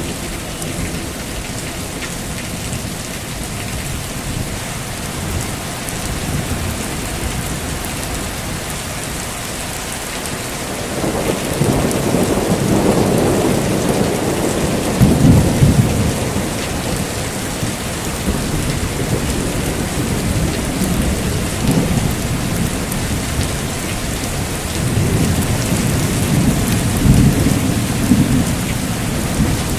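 Heavy, steady rain with rolling thunder. The thunder starts to rumble about eleven seconds in, peaks a few seconds later, and rolls again near the end.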